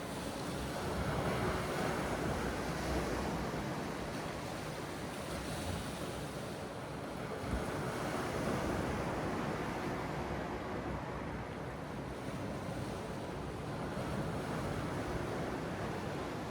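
Sea surf washing continuously on the shore, swelling and easing every few seconds, with wind rumbling on the microphone.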